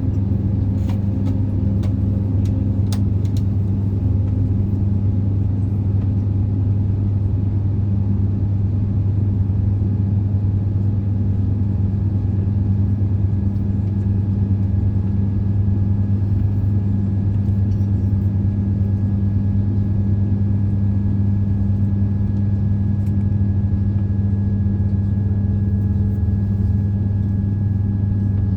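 Steady cabin noise inside an Airbus A350-900 airliner near takeoff: a low, even rumble and hum from the engines and air conditioning, with a few faint clicks in the first few seconds.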